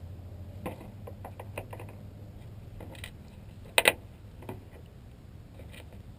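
Light clicks and taps of small parts on a scale-model excavator demolition shear being handled. The loudest are two sharp clicks close together about four seconds in, over a steady low hum.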